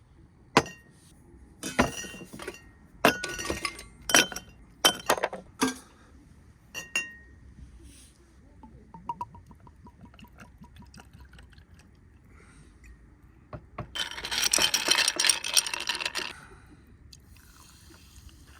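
Glassware clinking several times, sharp knocks that ring briefly, then a noisy stretch of about two seconds that sounds like liquid being poured.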